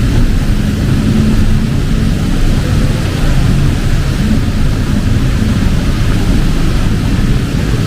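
Steady low rumble of street traffic under heavy rain, with an even hiss of rainfall over it.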